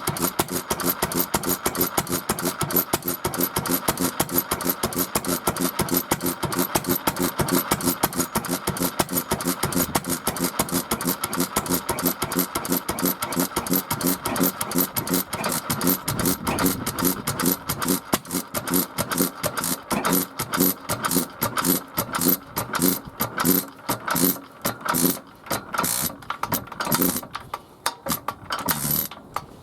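Small spark-ignition engine with a freshly replaced ignition condenser running on test with a rapid, even beat. The beats slow and turn irregular in the last third, dying away as the engine runs down near the end.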